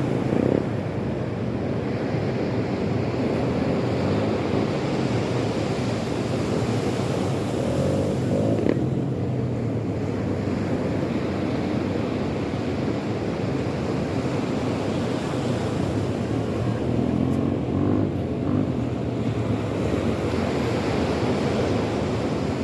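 Sea surf breaking and washing in, heard as a steady rush with wind on the microphone and a constant low rumble underneath.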